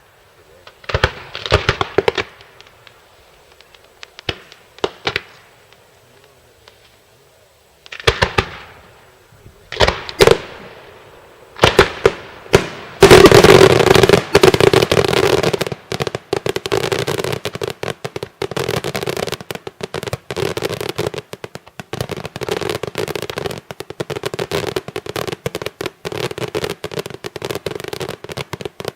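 Daytime fireworks: single loud bangs at uneven gaps for about twelve seconds, then a dense, rapid barrage of bangs that starts about thirteen seconds in, loudest at its start, and keeps going.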